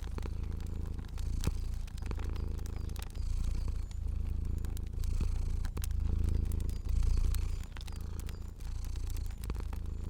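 A domestic cat purring steadily, the purr swelling and easing with each breath about once a second. Faint scattered crackles of a wood fire sound over it.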